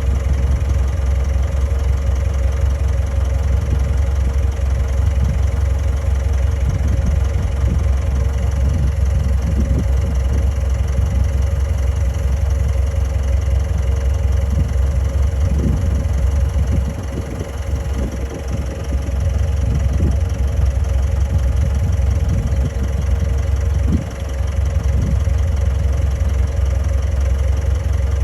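Komatsu D31A bulldozer's diesel engine running steadily, a low rumble with a steady whine over it; the engine sound dips briefly about two-thirds of the way in and again a few seconds later.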